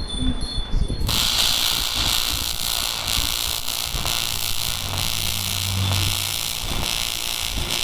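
AC TIG welding arc on aluminium: a steady, loud crackling hiss that strikes up suddenly about a second in and holds.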